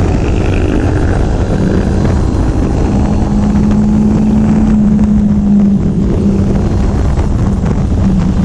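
Loud motorcycle engine running at a steady, near-constant pitch over a low rumble.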